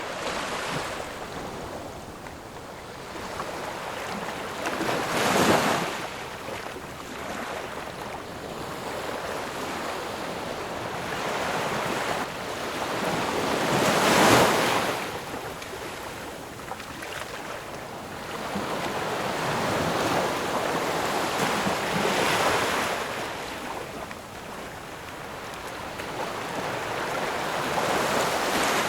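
Sea waves breaking on a shore in slow, surging swells, one about every eight seconds, with a steady wash of surf between them; the breaks about five and fourteen seconds in are the loudest.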